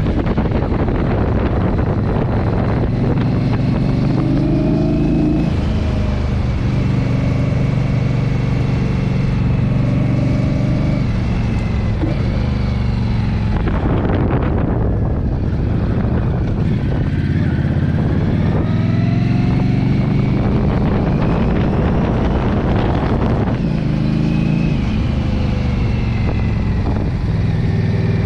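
Motorcycle engine running under way over a steady rushing noise. Its pitch climbs and drops back several times as it accelerates and shifts gear.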